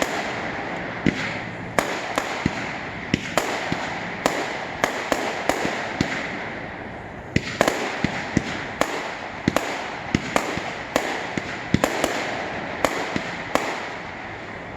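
Aerial fireworks going off: a rapid, irregular string of sharp bangs, two or three a second, over a continuous crackle and hiss.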